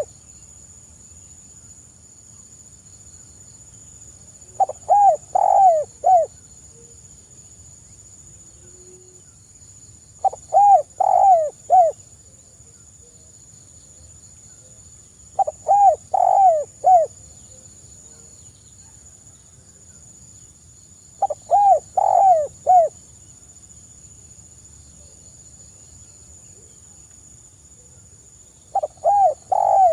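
Spotted dove (tekukur) cooing: short phrases of four or five arched coos, repeated about every five and a half seconds, five times over, with a steady faint high-pitched hiss underneath.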